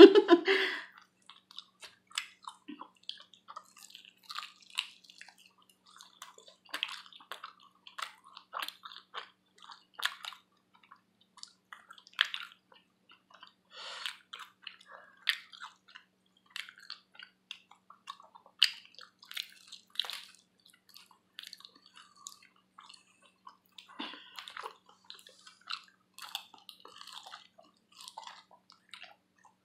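Close-up chewing of sauced buffalo wings: irregular wet mouth clicks, smacks and bites scattered throughout, with no steady sound beneath.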